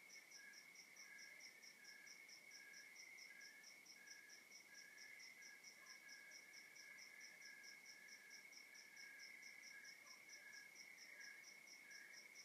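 Faint night chorus of crickets: one gives a continuous high trill while others chirp in steady pulses, one about twice a second and a higher one about four times a second.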